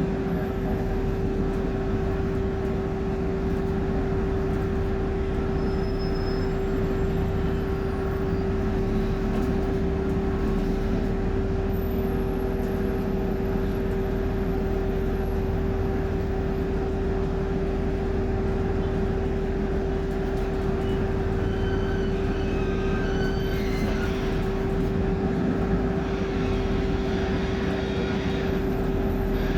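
Cummins engine of a BMC Procity city bus running steadily, heard on board, with a constant low rumble and one steady tone held throughout.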